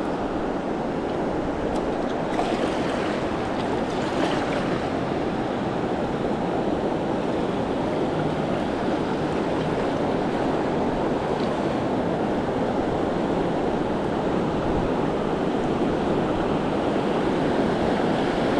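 Steady rush of river water running through rapids, an even noise without pauses.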